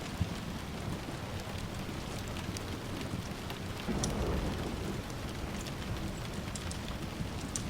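Steady rain with a low rumble of distant thunder swelling about four seconds in, and scattered sharp little clicks over the top.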